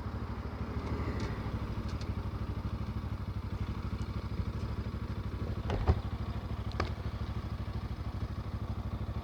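Motorcycle engine running steadily under way, with a fast even pulse of firing strokes. Two brief sharp knocks come a little past the middle.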